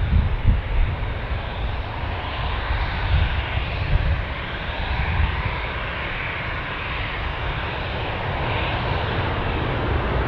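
Airliner engine noise: a continuous deep rumble with a hiss above it that slowly shifts in pitch.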